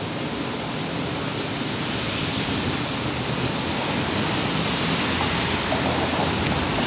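Intermodal freight train's container cars rolling across an elevated railroad overpass: a steady rushing rumble of wheels on rail that grows slowly louder, with a few faint clicks late on.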